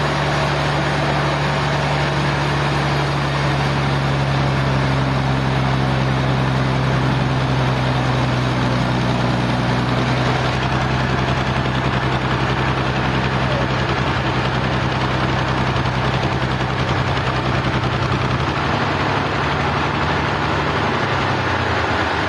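Sawmill machinery running with a steady low, engine-like hum over a noisy wash. The hum drops in pitch near the end and fades out.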